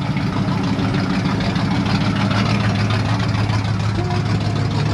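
Car engine idling steadily, an even low rumble that holds the same pitch throughout.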